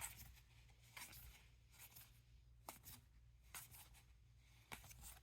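Trading cards being handled one by one, giving faint, short papery rustles and slides about once a second over quiet room hum.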